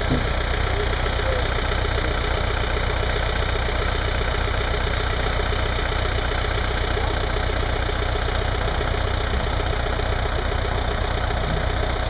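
A vehicle engine idling steadily, with no change in speed.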